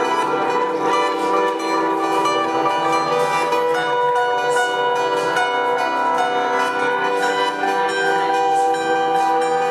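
Live band music: a steady instrumental passage of sustained, ringing pitched tones, with no singing.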